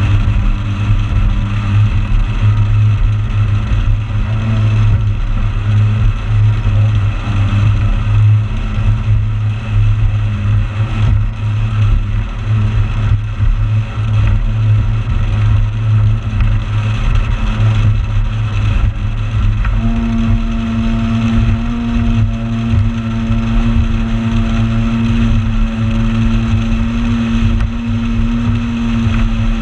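Motorboat engine running steadily under way, with a low drone and water and wind noise; about two-thirds of the way through the engine's note changes to a steadier, higher hum.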